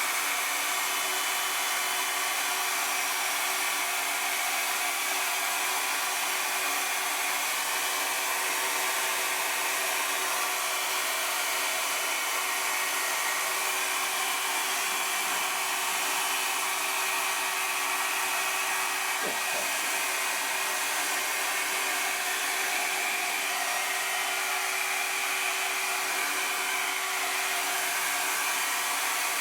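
A hand-held hot-air blower running steadily: an even airy whoosh with a faint steady hum.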